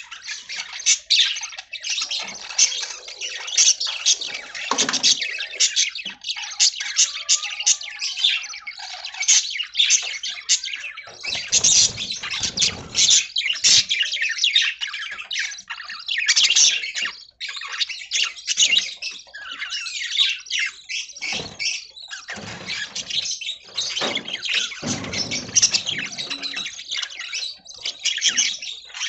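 A flock of budgerigars chirping and chattering without pause, many short high calls overlapping. A few lower, noisier sounds come in now and then.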